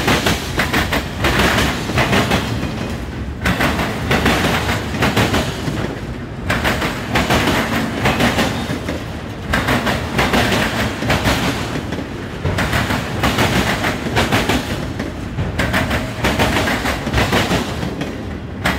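Freight train of autoracks and boxcars rolling past close by: steel wheels clattering over the rail joints with a low rumble, the clatter coming in groups that ease off briefly every few seconds as the cars go by.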